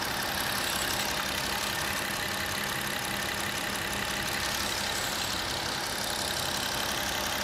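Jeep's engine idling steadily, warmed up to operating temperature.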